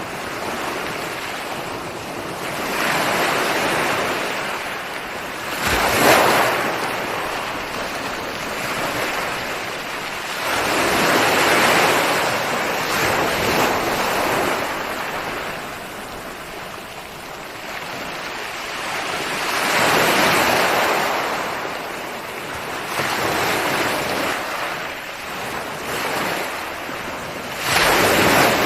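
Ocean waves breaking on a shore, a steady wash of surf that swells and ebbs in slow surges several seconds apart, with a sharper wave crash about six seconds in and another near the end.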